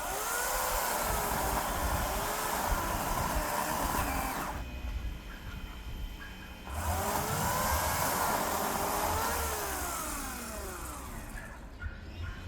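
Electric chainsaw cutting into the tree trunk in two runs with a pause of about two seconds between them. Its motor whine sags and climbs in pitch as the chain bites and frees in the wood.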